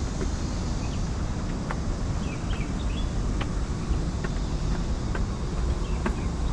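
Steady low rumble of wind and city background, with scattered short bird chirps and calls over it, including a quick cluster of small chirps about two to three seconds in.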